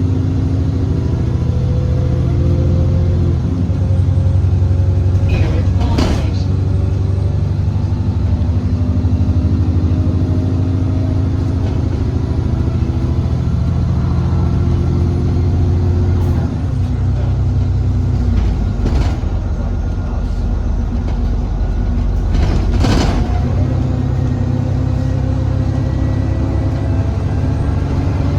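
Alexander Dennis Enviro400 diesel double-decker bus engine running under way with a whining "hoovering" note. Its pitch rises as the bus pulls away, then drops back several times as it slows or changes gear. A few sharp knocks sound about six seconds in and twice in the last third.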